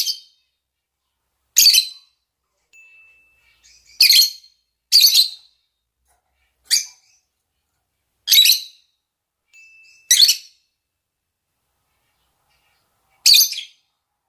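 Lovebirds, rosy-faced and Fischer's, giving short, sharp, high-pitched calls, about eight single calls spaced irregularly a second or more apart. These are the birds' calls to a mate.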